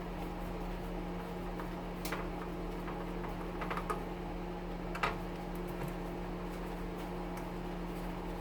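A few light clicks and taps of metal oven parts being handled, about two, four and five seconds in, over a steady low hum.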